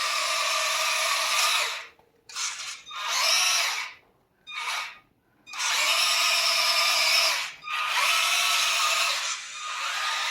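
Remote-control off-road truck's electric motor and gear drive whining as it is driven. It runs steadily, then cuts out and restarts in several short bursts, rising in pitch as it speeds up each time, before running steadily again.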